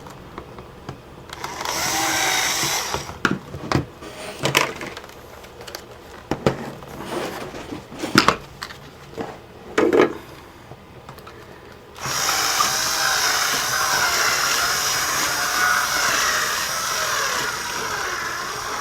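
Cordless power drill running with a bit in the laptop's plastic power-jack hole, reaming it wider. A short run comes early, then several handling knocks and clicks, then a longer steady run from about twelve seconds in.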